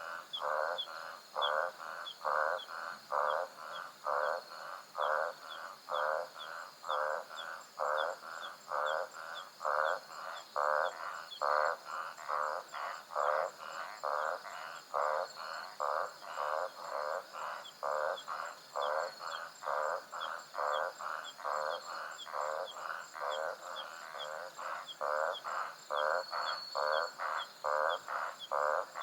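A frog calling in a steady, unbroken series of croaks, about two a second, over a constant high trilling of crickets and other insects at night in the African savanna, with small quick chirps between the croaks.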